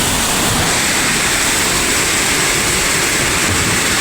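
Heavy rain pouring in strong wind: a loud, steady rushing, with the wind buffeting the microphone in low, irregular rumbles.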